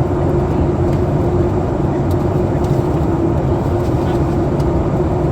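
Steady cabin roar of a Boeing 737 MAX 8 in descent: rushing airflow and the CFM LEAP-1B engines, a low rumble with a steady droning tone over it.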